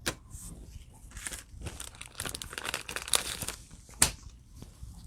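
Foil wrapper of a Donruss Optic football trading-card pack crinkling and tearing in the hands as the pack is handled and opened, with irregular crackles and a sharp snap about four seconds in.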